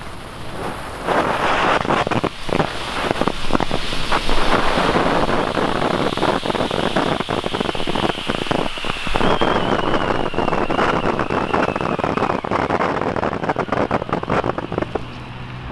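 ST8MENT Bonsai ground fountain firework burning: a loud hissing spray of sparks, thick with crackles, starting about a second in and dying down near the end. A thin whistle-like tone slowly falls in pitch partway through.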